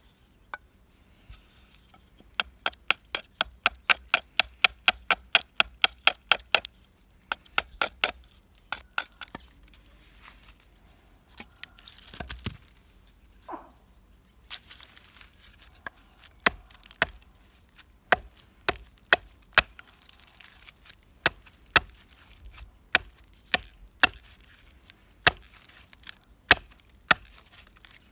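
A hand tool chopping into wood: a fast run of sharp strikes, about four a second, then after a pause slower strikes, one or two a second.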